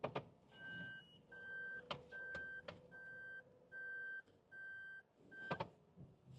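A car's electronic warning chime beeping seven times at an even pace, a little over one beep a second, each beep a short steady tone. A few sharp clicks and knocks fall among the beeps.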